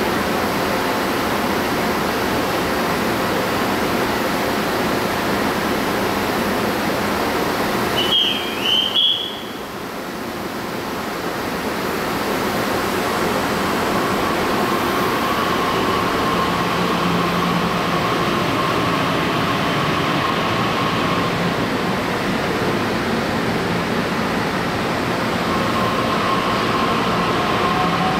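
TRA EMU600 electric multiple unit standing and then departing: a steady hum of the train and platform air, a short wavering whistle about eight seconds in, then a faint motor whine from the middle on, rising slowly near the end as the train starts to pull out.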